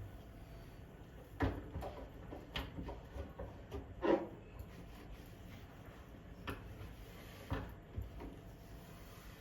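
A few scattered knocks and clatters of kitchen objects being handled and set down, the loudest about four seconds in.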